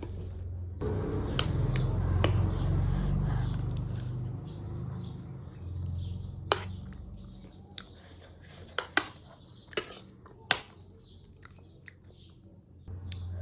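Close-up eating sounds: chatpate, a spicy puffed-rice snack, being chewed for a few seconds near the start, then several sharp, separate clicks in the second half.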